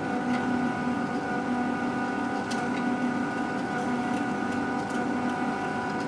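Wire feeder motor of a handheld laser welding machine running steadily, pushing filler wire through the wire tube: a constant hum with a few faint clicks.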